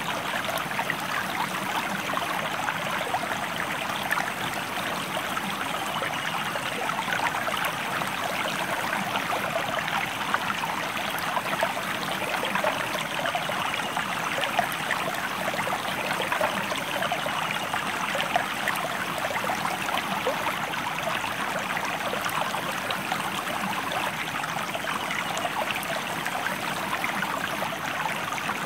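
River water flowing, a steady rushing and trickling of running water.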